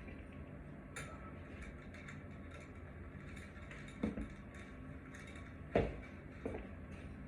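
A few short knocks and clinks of hard objects being handled, the loudest about six seconds in, over a steady low hum.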